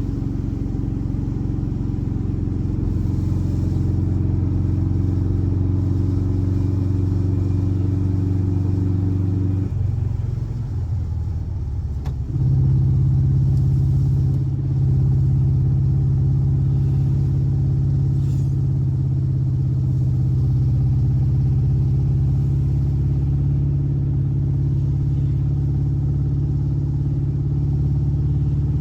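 Air-cooled 1584cc flat-four boxer engine of a Volkswagen Beetle running at a steady speed. About ten seconds in, its note wavers. About two seconds later it settles at a higher, louder steady speed and holds there.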